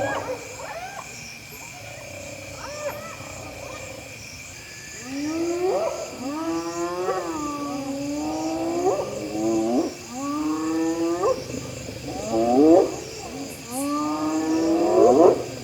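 Spotted hyenas calling loudly and aggressively while mobbing a lion at its kill. About five seconds in, a string of loud yelping, swooping calls begins, each about a second long, rising sharply and then falling, one after another. Insects chirr steadily underneath.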